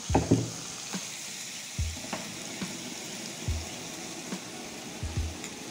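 Marinated chicken pieces sizzling as they fry in oil and butter in a pan, stirred with a spatula that knocks and scrapes against the pan several times.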